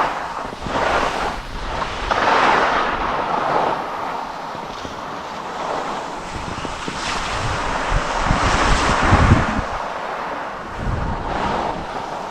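Skis scraping and hissing over packed snow in swelling waves as the skier turns, with wind buffeting the microphone in low gusts.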